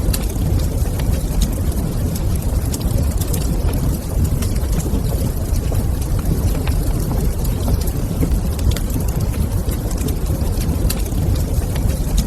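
Wood fire burning in a stone fireplace: a steady low rumble with frequent small irregular crackles and pops.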